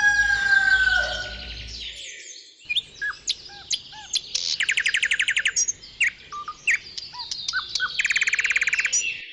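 A rooster's crow trails off in the first second or so. Then small birds chirp and call, with two rapid trills, one in the middle and one near the end.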